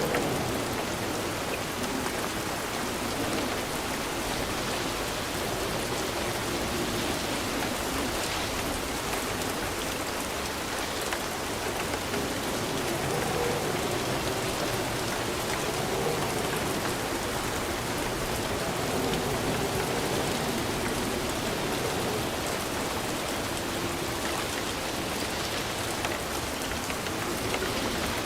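Steady rain falling on a surface, an even hiss with a faint low wavering rumble beneath it.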